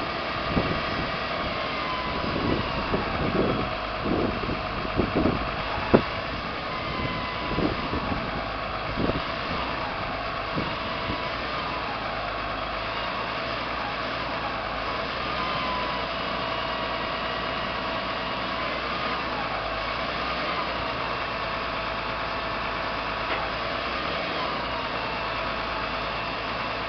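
Claw truck's engine running steadily with its hydraulics whining, the whine bending up and down as the grapple arm moves. Knocks and clatter in the first ten seconds, one sharp knock about six seconds in, as the claw handles palm fronds; steadier running after that.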